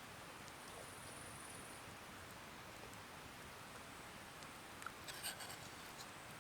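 Faint, steady background hiss of quiet outdoor ambience, with a thin high buzz near the start and a few small clicks and rustles about five seconds in.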